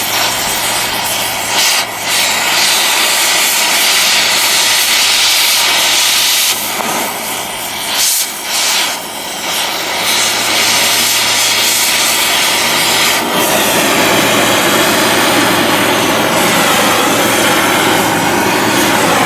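Oxy-fuel torch with a scarfing tip gouging out old welds, a loud steady hiss with a low hum beneath. The hiss dips briefly a few times around the middle and turns coarser about two-thirds through.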